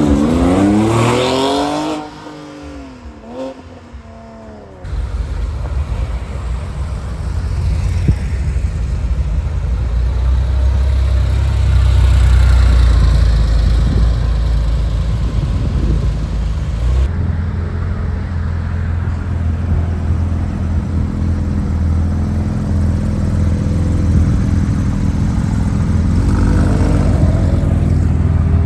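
Porsche sports car engines across cut-together clips: an engine revving with rising pitch for the first couple of seconds, then, after a sudden cut, a long steady low engine rumble that swells a little at times.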